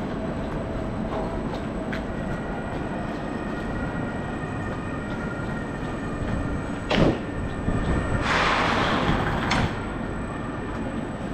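Railway platform beside a standing passenger train: a steady low hum and rumble with faint steady tones, and wheeled suitcases rolling over the platform. About seven seconds in there is one sharp clack, and a second later a hiss lasting about a second and a half.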